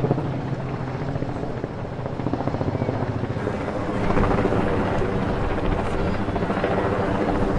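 Wind buffeting the microphone in a low, fluttering rumble over the continuous murmur of a large crowd of people walking and talking. The wind and crowd get a little louder about halfway through.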